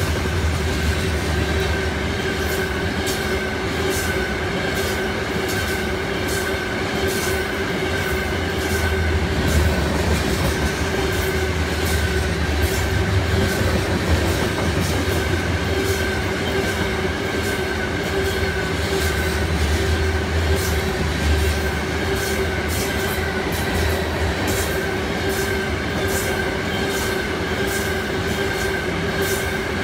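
Freight train of open-top hopper cars rolling past close by: a steady low rumble with frequent clicks of the wheels over the rail joints, and two steady high tones running over it.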